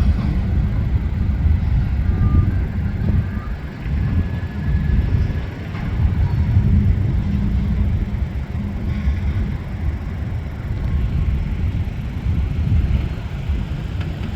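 A train rolling past, heard as a low, uneven rumble.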